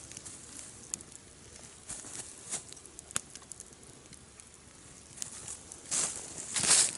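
Campfire crackling quietly, with a few scattered sharp pops over a low hiss. From about six seconds in, louder rustling and crunching noises take over.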